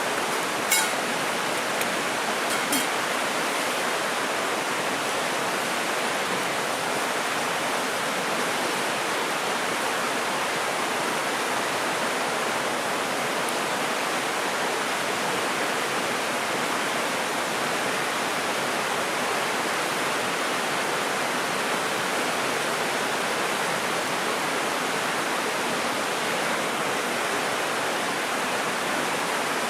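Mountain stream rushing steadily over rocks, an even wash of water noise. A few sharp clicks sound in the first three seconds, the loudest about a second in.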